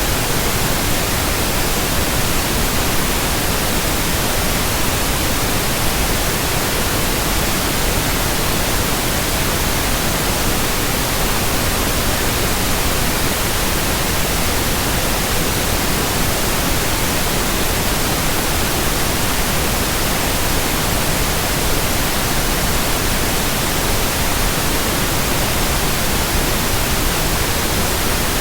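Steady white noise: an even, unchanging hiss from deep to very high pitches, with no hum, rhythm or variation.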